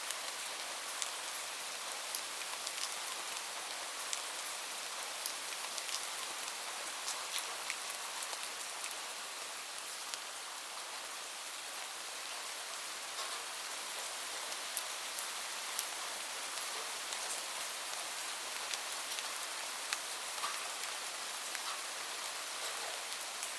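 Steady rain, a constant hiss with many separate drops ticking sharply on a surface throughout.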